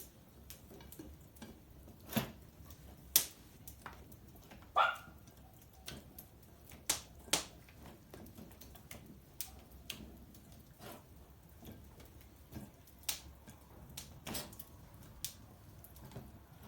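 Wood crackling in a fireplace: irregular sharp pops and clicks, a few of them loud, with one short high squeak that drops in pitch about five seconds in.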